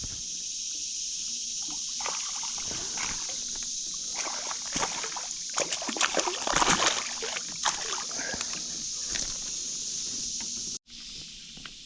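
Water splashing and sloshing in irregular bursts, loudest from about four to eight seconds in, as a hooked bass thrashes at the surface beside a kayak. A steady high hiss runs underneath, and the sound cuts out abruptly for a moment near the end.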